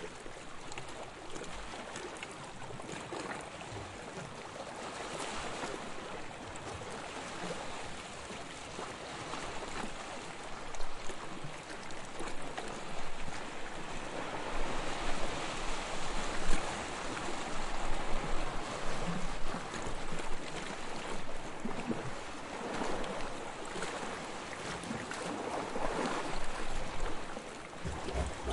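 Sea waves washing against the shore, an even rush of water that grows louder and surges unevenly from about ten seconds in.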